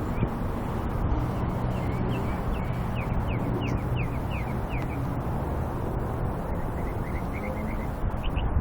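A songbird singing: a run of quick down-slurred whistled notes, then a second run of short notes near the end, over a steady low background rumble.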